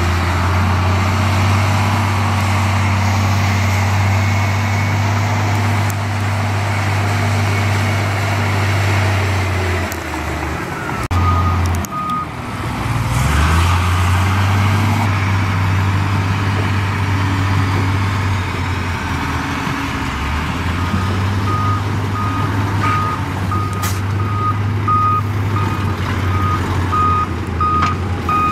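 Heavy diesel engine of earthmoving equipment running hard; it drops off about ten seconds in, then picks up again with a rising rev. A reversing alarm sounds briefly mid-way and then beeps steadily through the last third.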